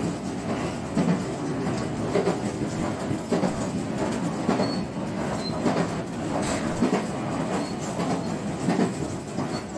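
JR West 125 series electric railcar running on the line, heard from inside the car: a steady rumble with irregular clacks and knocks as the wheels pass over the rail joints.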